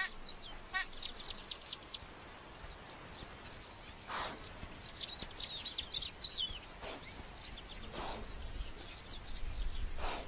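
Small birds chirping in the background: quick runs of short, high, falling notes, with a couple of sharp clicks near the start.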